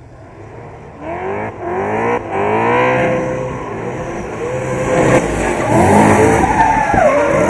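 A drift car's engine revving hard. The pitch climbs and falls again and again, with short breaks between pulls; it comes in about a second in and grows louder.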